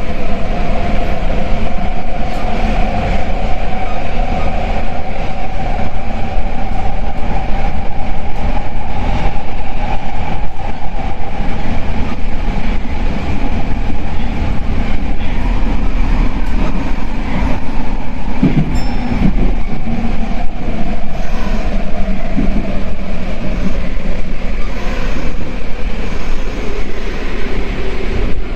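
Nagoya Municipal Subway 2000 series train running through the tunnel, heard inside the car: steady running noise with a motor whine that rises slightly over the first few seconds and then slowly falls, with a few brief clicks about two-thirds of the way through.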